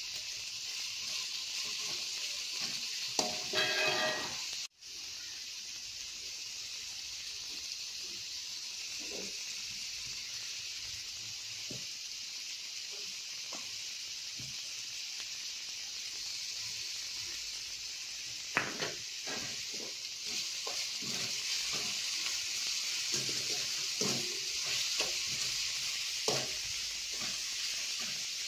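Chopped onions, green chillies and tomato sizzling as they fry in a metal wok, with a wooden spoon scraping and tapping against the pan as they are stirred.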